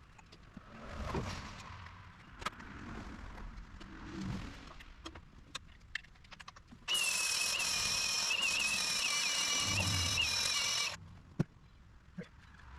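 A nozzle blasting pressurized gas, a steady loud hiss with a wavering whistle, comes on abruptly about seven seconds in and cuts off four seconds later. Scattered clicks and knocks of handling tools and parts come before and after it.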